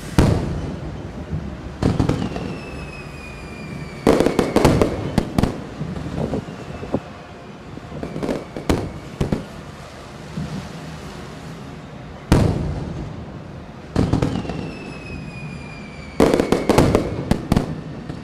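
Aerial firework shells bursting: a series of sharp booms, some coming in quick crackling clusters, with long whistles that fall slowly in pitch between the bursts.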